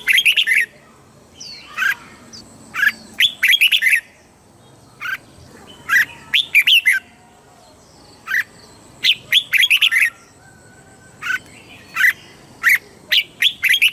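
Red-whiskered bulbul singing: short phrases of quick, clear whistled notes, one every second or two. The song is in the southern Thai master-song style used to train caged bulbuls.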